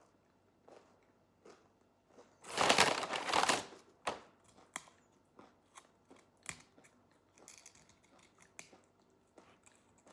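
A loud crinkling rustle of handling noise lasting about a second, a couple of seconds in, followed by scattered small clicks and taps while she eats.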